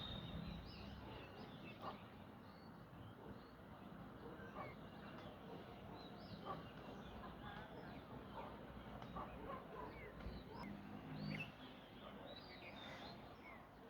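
Birds chirping, faint: many short, quick chirps overlapping, over a low background rumble.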